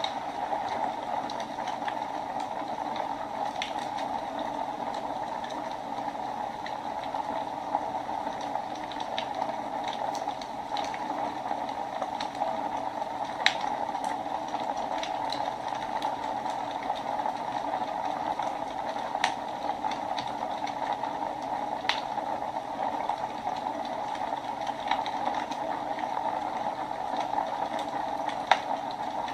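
Wood fire burning in a fireplace: a steady hiss of the flames with irregular small crackles and a few sharper pops every several seconds.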